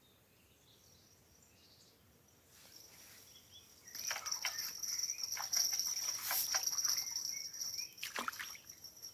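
Crickets chirring in a steady high trill from about four seconds in, over a quick run of clicks and rustles that stops near the end.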